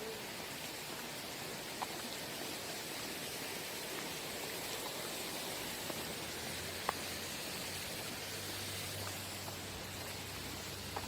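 Steady outdoor background hiss, with a couple of faint clicks and a low hum coming in about halfway through.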